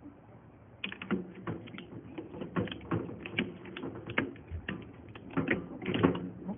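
A run of irregular sharp clicks, taps and light clatters of hard objects being handled, starting about a second in, with no motor running.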